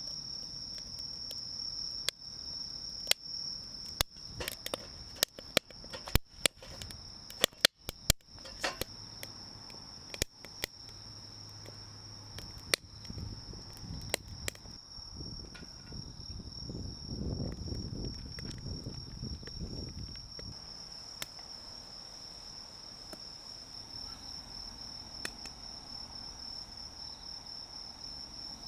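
Insects chirring in one steady high-pitched tone throughout. Over it come a run of sharp clicks and snaps, thick in the first half and the loudest sounds present, and a brief low rumble a little past the middle.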